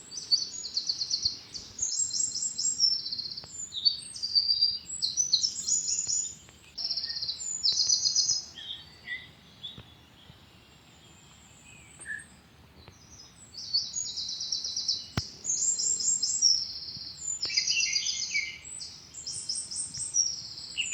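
Birds singing: many short, high, rapid trilled phrases and chirps, with a lull of a few seconds in the middle.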